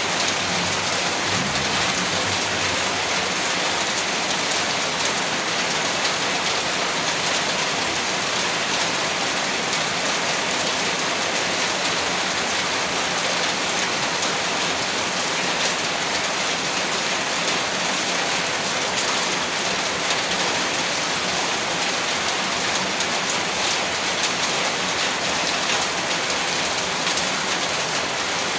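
Heavy rain falling steadily: a dense, even hiss of downpour on surfaces, with no breaks or changes.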